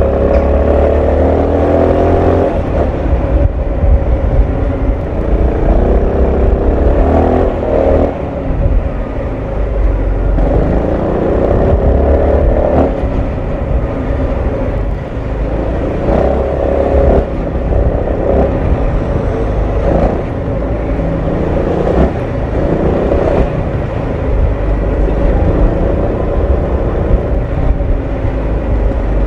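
Honda ADV 350 scooter's single-cylinder four-stroke engine and exhaust running, with its pitch rising repeatedly as the throttle is opened and dropping back between pulls.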